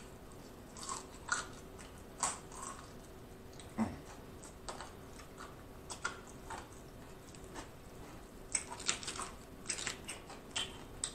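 Close-up mouth sounds of a person biting and chewing fried chicken, with short crackly clicks and smacks at irregular intervals. A faint steady hum runs underneath.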